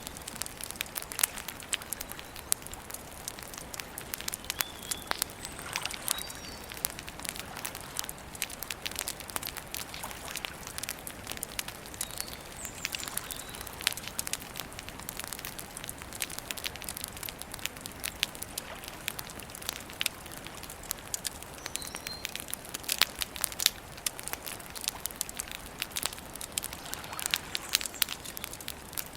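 Wood campfire burning, with a constant crackle and frequent sharp, irregular pops.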